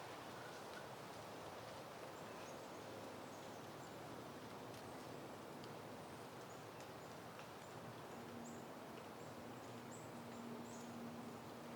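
Soft, steady wind in the open air, with small birds giving many short high chirps that come more often in the second half. A faint low steady hum joins about eight seconds in.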